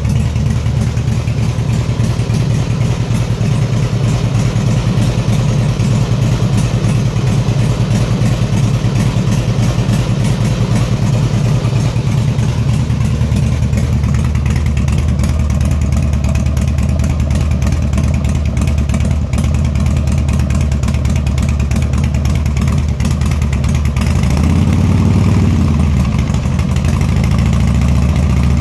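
Harley-Davidson FXSTDSE2 V-twin engine idling steadily, its note rising briefly and settling back near the end.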